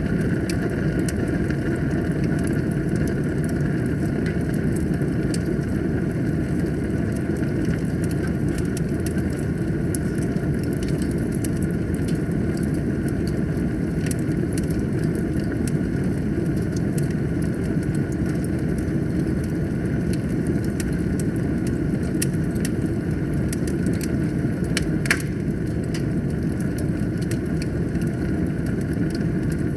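Fire burning in a fireplace: a steady low roar with frequent small crackles and pops, and one louder pop late on.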